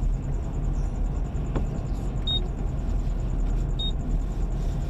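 Steady low rumble of a four-wheel-drive vehicle's engine and tyres on the road, heard from inside the cabin while driving. Two short high beeps come about a second and a half apart near the middle.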